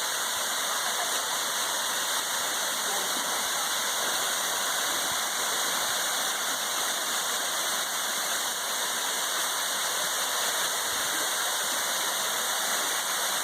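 Rushing water, a steady even hiss of falling or flowing water.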